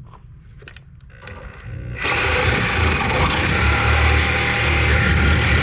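A few light clicks, then a sudden, loud, steady mechanical rattle starting about two seconds in, from scrap AC parts being worked apart.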